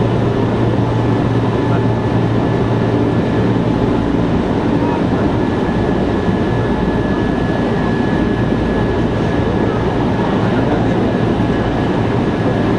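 Osaka Municipal Subway 66 series electric train running at a steady speed, heard from inside the car: even running noise of the wheels on the rails with a low hum and a faint steady whine.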